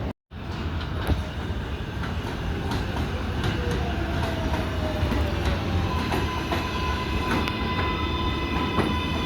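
R188 subway train running on the rails, a steady rumble with wheel clicks. A faint falling tone passes through, then a steady whine of several tones comes in about six seconds in.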